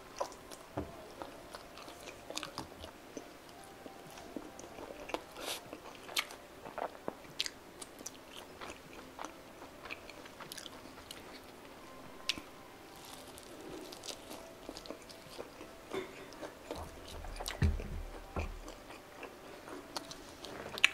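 Close-up biting and chewing of a spicy Korean fried chicken drumstick dipped in stretchy cheese: irregular wet crunches and crackles of the fried coating. About three-quarters of the way through there is a short run of low thumps, the loudest sounds here.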